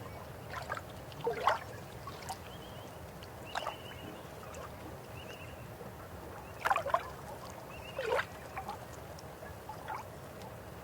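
River water flowing with a steady low rush, broken by irregular gurgles and plops that are loudest about a second and a half in and again around seven and eight seconds in.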